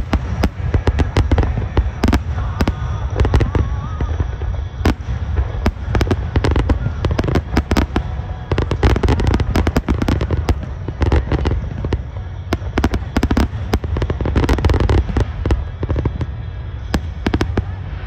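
Fireworks display: aerial shells bursting in rapid succession, many sharp bangs and crackles close together over a steady low rumble.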